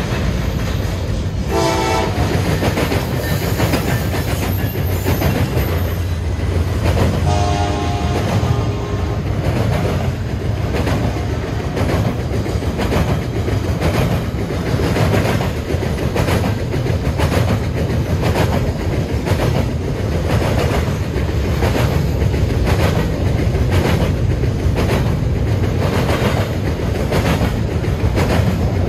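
A CN freight train's cars rolling past close by, first empty centerbeam flatcars and then double-stack container well cars, with a steady rumble and regular clickety-clack of wheels over the rail joints. A locomotive horn sounds briefly about two seconds in and again around seven to nine seconds in.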